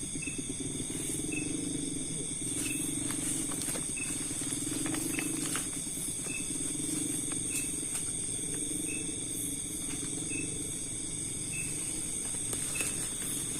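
Night chorus of crickets and other insects: several steady high-pitched trills, a short chirp repeating a little more than once a second, and a low pulsing trill underneath.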